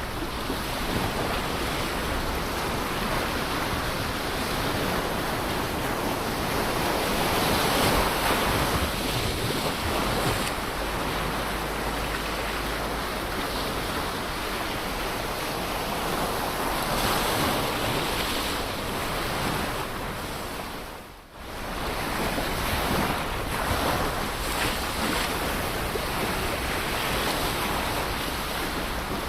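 Ocean surf: a continuous rush of waves breaking and washing on the shore, swelling louder every several seconds. About two-thirds of the way in, the sound briefly dips almost away and then comes back.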